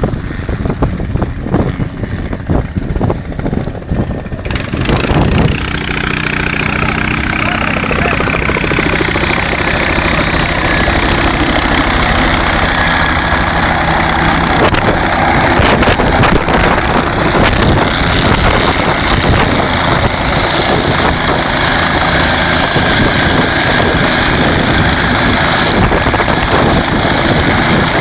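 Helicopter close by: gusty buffeting at first, then from about five seconds in a loud, steady engine-and-rotor noise with a high whine.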